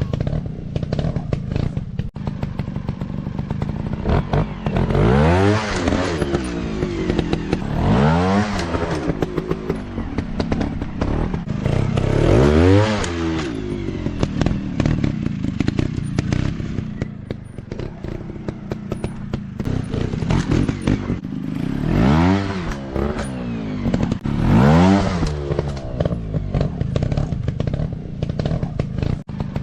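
Dirt bike engine revving hard in repeated bursts, about five times, each rising then dropping in pitch, over a steady engine note with frequent short knocks.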